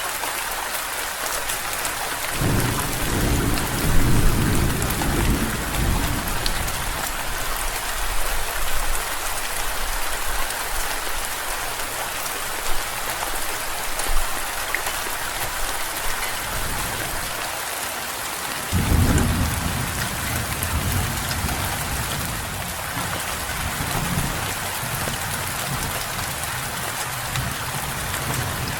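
Steady rain falling, with two rolls of thunder: a low rumble about two seconds in that swells and fades within a few seconds, and a second that breaks in suddenly about two-thirds of the way through and dies away slowly.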